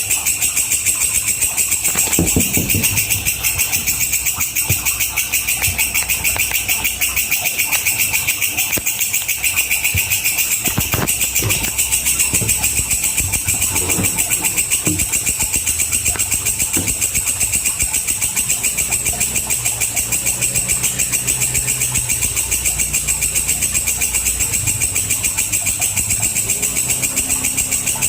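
Walang kecek katydid stridulating: a continuous, shrill, high-pitched buzz made of a very fast run of ticks.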